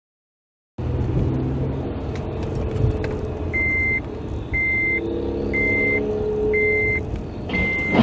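Vehicle running with road noise, starting under a second in. From a few seconds in, an electronic warning beep sounds about once a second, each a short steady high tone, five times.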